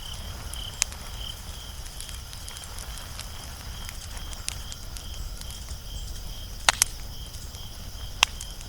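Wood fire crackling, with small snaps throughout and sharper pops about a second in, twice in quick succession near seven seconds, and once near the end.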